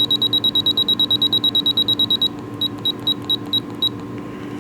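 Rapid train of short, high-pitched electronic beeps, about ten a second. After about two seconds they change to a slower, uneven run of single beeps and stop about four seconds in, over a faint steady hum.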